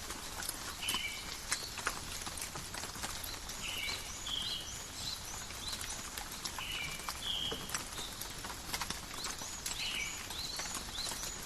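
Rain falling in a forest, a steady patter with many separate drops ticking close by. Over it, short two-note calls repeat every two to three seconds, with higher chirps in between.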